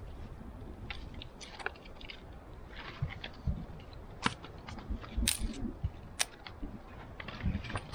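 Small dry twigs snapping and crackling in irregular sharp cracks as they are broken and handled for kindling.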